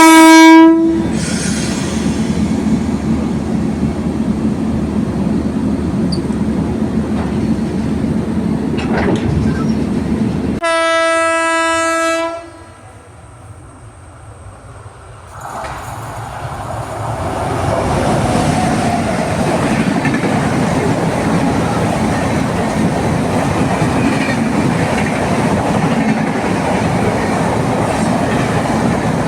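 A passing train sounds its horn twice: a short blast at the start and a longer one of about two seconds near the middle. Steel wheels rumble and clack over the rails throughout. After the second blast the noise drops briefly, then builds up again.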